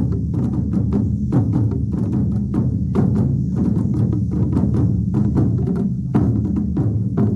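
Ensemble of large drums played live, a dense, steady run of heavy strokes with deep, booming low tones.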